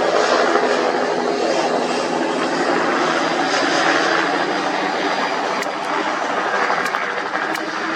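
Helicopter running close by: a steady, loud rush of rotor and turbine noise with a constant engine hum that holds level throughout.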